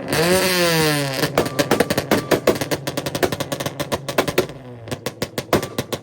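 A car engine revs up sharply and drops back, then sits on a two-step launch limiter, firing a rapid run of loud exhaust pops and bangs like machine-gun fire. The popping breaks off briefly near the end, then starts again.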